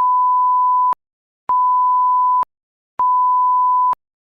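Electronic beep tone at one steady pitch, sounding three times: each beep lasts about a second, with half-second gaps of silence and a faint click where each starts and stops.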